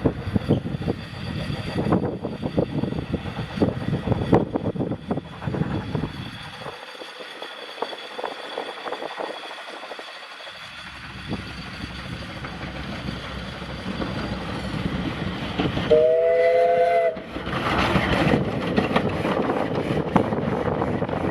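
A train running with its wheels clicking over the rail joints, quieter for a few seconds in the middle. About sixteen seconds in, a locomotive whistle sounds one short blast of about a second, several tones at once.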